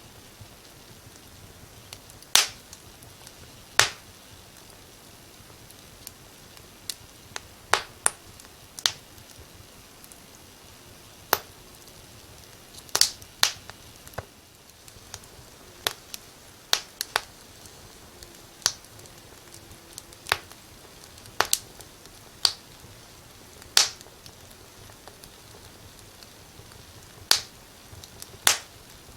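Fire in a fireplace crackling: sharp, irregular pops, roughly one a second and some in quick pairs, over a faint steady hiss.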